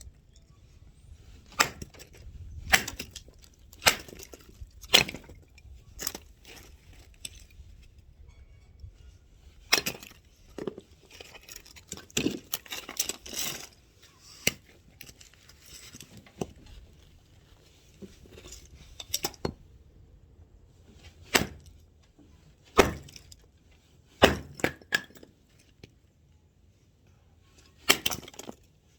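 Axe chopping firewood: about a dozen sharp, irregularly spaced blows, with smaller knocks and the clatter of split wood between them.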